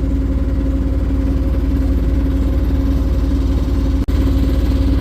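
Boat's engine running steadily under way: a low, evenly pulsing drone with a steady hum over it. The sound drops out for an instant about four seconds in.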